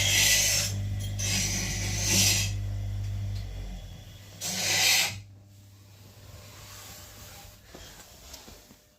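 VW Passat B6 being cranked in three short rasping bursts over a steady low hum, the engine never catching: a no-start.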